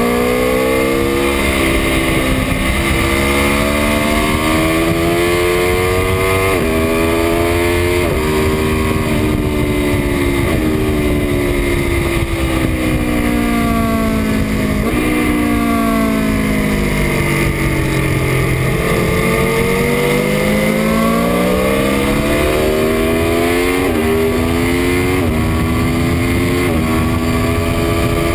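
2018 Aprilia Tuono V4 1100 RR's V4 engine under hard acceleration. Its pitch climbs and drops sharply at each of several quick upshifts, falls steadily for a few seconds around the middle as the bike slows, then climbs again through more upshifts. A steady rush of wind noise runs underneath.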